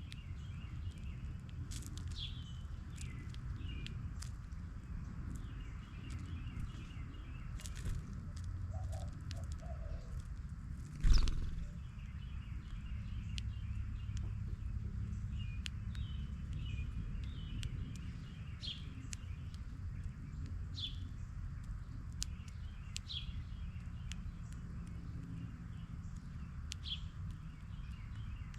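Small birds chirping: short, sharp, falling chirps every second or two over a steady low rumble. A single loud thump about eleven seconds in.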